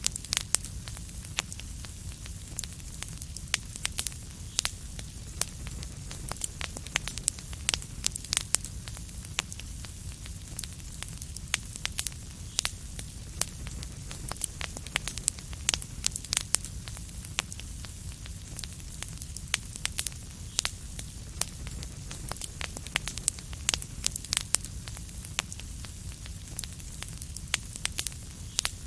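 Fireplace fire crackling: a dense run of sharp, irregular pops and snaps, several a second, over a steady low rumble of the burning.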